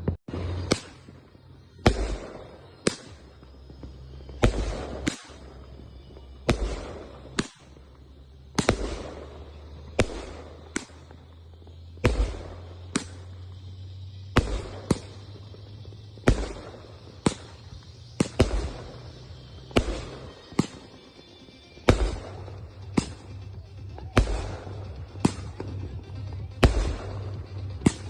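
Consumer fireworks going off in a steady series, about one sharp bang a second, each trailing off briefly.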